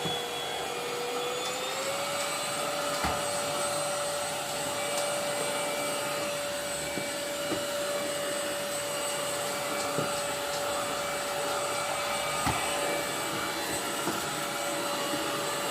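MOOSOO cordless vacuum running steadily while vacuuming stairs, a constant motor whine over the rush of suction. Its pitch steps up slightly about two seconds in, and there are a few faint clicks along the way.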